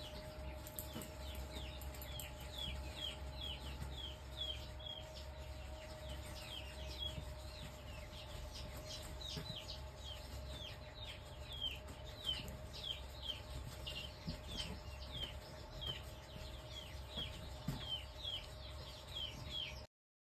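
High, short, falling peeps repeated about two or three a second, like a bird or chick peeping, over a steady low hum. All sound cuts off abruptly shortly before the end.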